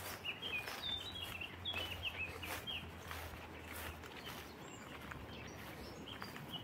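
A small songbird singing a quick run of short chirping notes for the first few seconds, over footsteps on a path at a steady walking pace. A low steady hum underneath stops about four seconds in.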